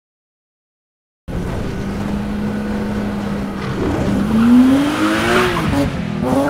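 Race-car engine sound effect in a logo sting: after about a second of silence it cuts in suddenly, holds a steady note, then revs up in pitch, dips near the end and starts climbing again.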